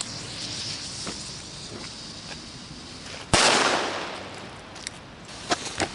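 A firecracker goes off with one sharp bang about three seconds in, its sound trailing off over about a second. Before it there is a faint hiss, and a few light pops come near the end.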